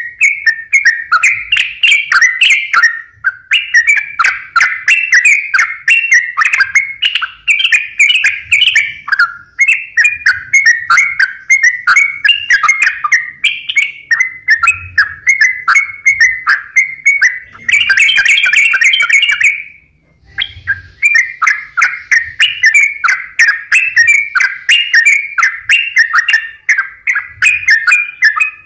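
Yellow-vented bulbul (trucukan) singing in a fast, unbroken run of bubbling chirps, with a few short pauses and a brief gap about two-thirds of the way through; just before the gap comes a denser, rattling stretch.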